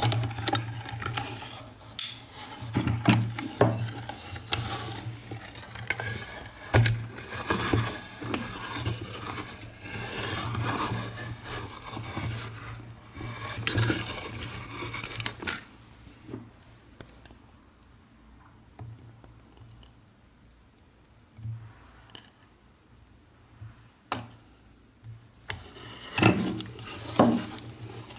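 Meat grinder crushing hard candy: a dense run of crunching and scraping for the first half, quieter for several seconds after that, then a few loud crunches near the end.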